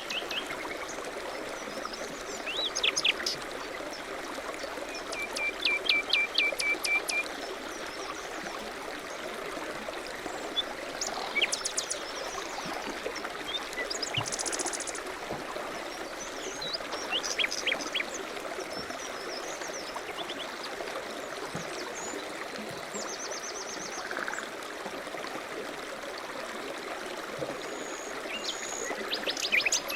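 Songbirds singing in short phrases every few seconds, chirps and quick runs of notes and trills, over the steady rush of running water.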